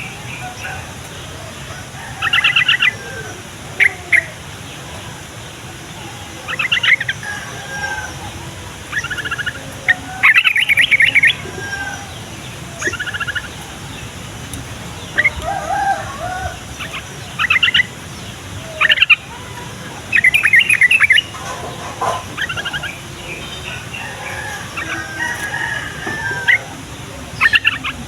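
Yellow-vented bulbul (trucukan) singing: short, bubbly phrases of rapid notes, repeated every second or two, with quieter chatter between them.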